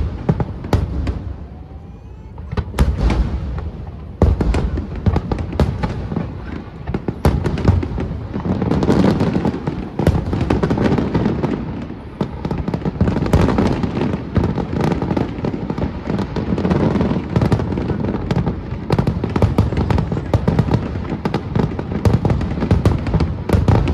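Aerial fireworks shells bursting in a rapid, almost continuous barrage of booms and crackling, growing denser about eight seconds in.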